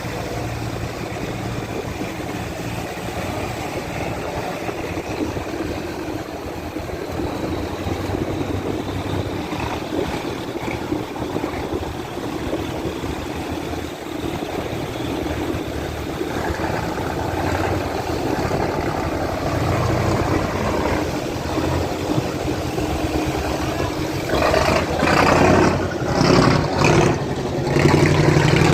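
Boat engines running steadily as the boats push upstream against the current through a sluice gate. The engine noise swells in several louder surges in the last few seconds.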